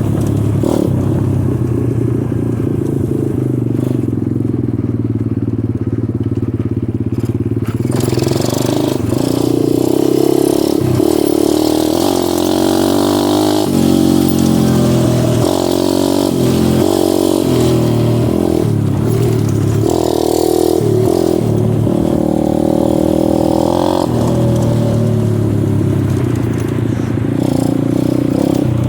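Dirt bike engine running on a trail ride, its pitch rising and falling again and again with the throttle and gear changes.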